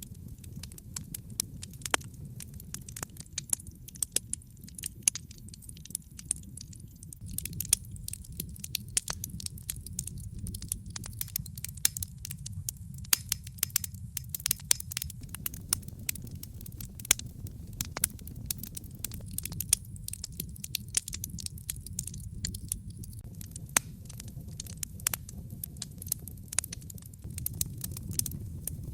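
Fire crackling in a fireplace, with frequent irregular sharp pops and snaps over a steady low rumble.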